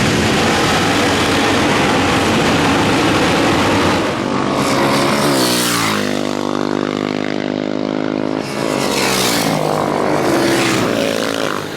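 Classic racing motorcycle engines on the circuit: a dense rush of noise, then about four seconds in a single engine note drops in pitch, holds, and climbs again near the end.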